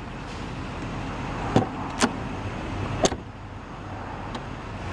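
Three sharp clicks and knocks from a 1997 Mercedes-Benz S500's door being handled, heard over a steady low running noise.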